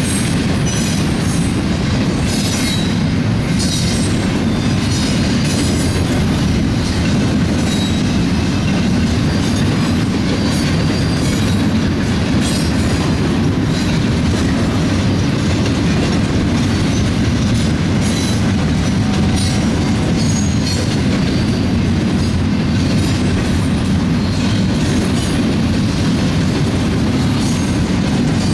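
BNSF double-stack container train rolling past: a steady, loud rumble of steel wheels on rail, with frequent short high squeaks and clicks from the wheels and cars.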